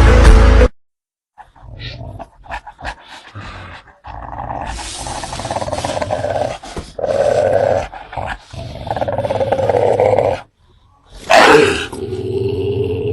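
Loud music cuts off under a second in, then a dog growls fiercely. The growling comes first as short broken sounds, then in long stretches, with a loud outburst about eleven seconds in.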